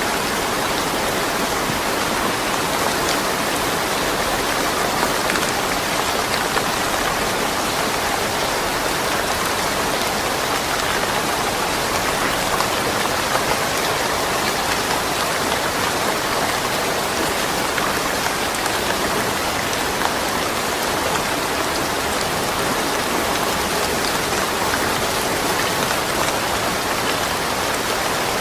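Steady rain falling, an even hiss of drops on surfaces without thunder.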